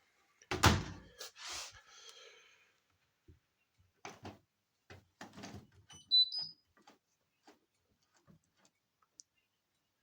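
A loud thud about half a second in, then scattered clicks and knocks with quiet gaps between them, and a short high beep about six seconds in.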